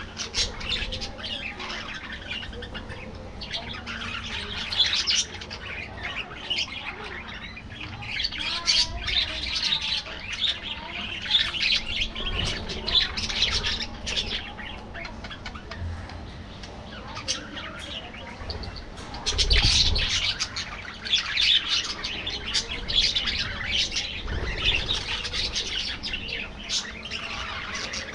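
A flock of budgerigars chattering continuously, many overlapping high chirps, warbles and squawks. A brief low rumble comes about two-thirds of the way through.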